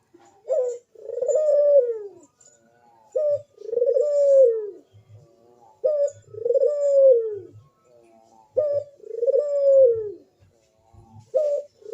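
A crossbred male domestic collared dove (puter) in breeding condition, cooing over and over: each call is a short note followed by a longer coo that rises and falls, repeated about every two and a half seconds, four times.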